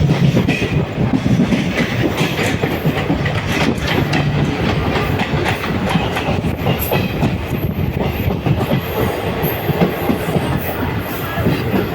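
Suburban train running along the track, its wheels clattering steadily over the rail joints.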